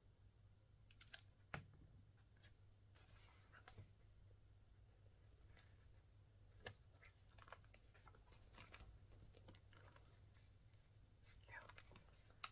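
Quiet handling of paper and craft supplies: faint rustles and scattered light clicks and taps, with a couple of sharper clicks about a second in.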